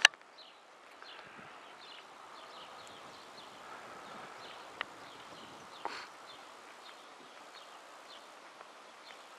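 Faint outdoor background with small birds chirping repeatedly in short, high calls. A sharp click at the very start, and two brief knocks about five and six seconds in.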